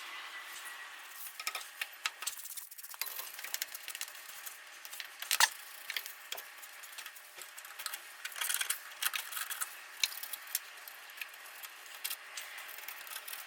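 Irregular clicks, taps and scraping from hand work on metal parts, with a sharper knock about five and a half seconds in.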